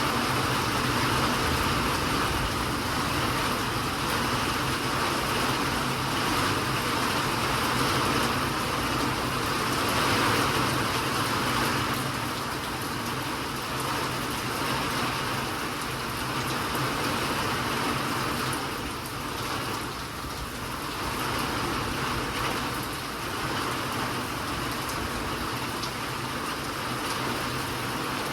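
Steady rain falling, an even hiss that dips slightly in level about two-thirds of the way through.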